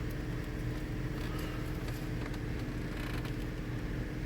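Nissan Pathfinder V6 engine idling steadily, with a few faint clicks over it.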